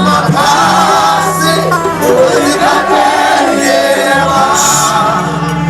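Live gospel praise music: voices singing a wavering melody over a band with a steady bass line.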